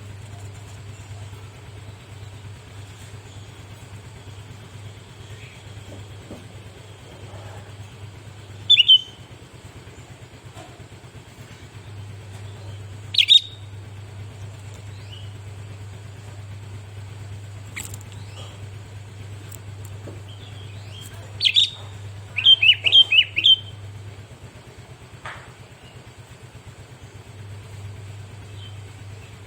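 Sooty-headed bulbul (kutilang) calling: short, loud chirps, a single one about a third of the way in and another a little later, then a quick run of about five notes near the end. A steady low hum lies underneath.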